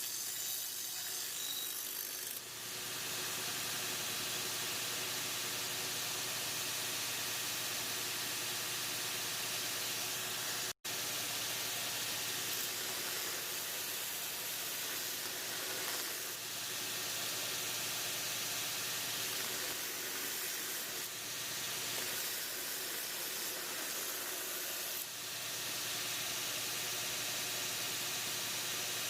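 Power abrasive tool grinding rust off a steel axe head: a steady hissing rasp of abrasive on metal over a motor's hum. It cuts out for an instant about eleven seconds in.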